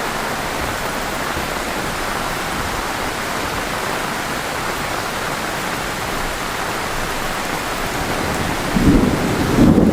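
Heavy rain falling steadily with an even hiss. Near the end a low rumble of thunder begins and grows louder.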